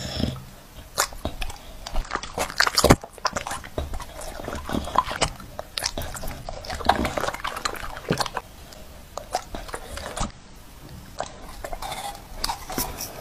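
Chewing and crunching: a steady run of irregular crisp crunches and clicks.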